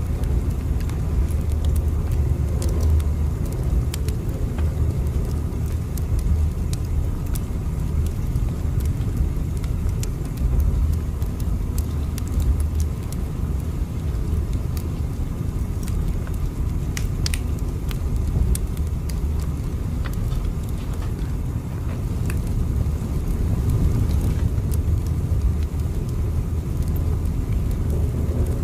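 Steady, deep rumble of a train running, with scattered faint clicks and ticks over it.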